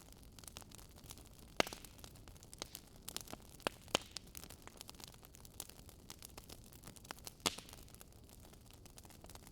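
Wood fire crackling: irregular sharp pops and snaps over a soft steady hiss, the loudest pops coming about one and a half seconds in, twice near four seconds, and about seven and a half seconds in.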